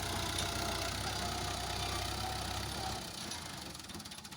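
Fiat 640 tractor's diesel engine running steadily, easing off a little near the end.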